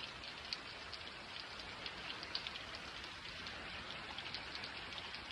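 Steady rain falling, with scattered drops ticking sharply on a surface.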